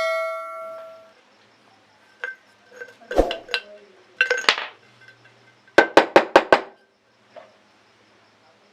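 Metal parts of an old oil can being worked by hand: a struck metal piece rings out and dies away in the first second, then scattered clinks and scrapes, then five quick sharp metal taps around six seconds in.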